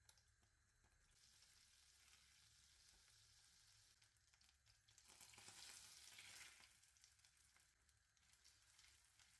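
Food faintly sizzling and crackling in a hot pan. It grows louder for a second or so about five seconds in, then settles back.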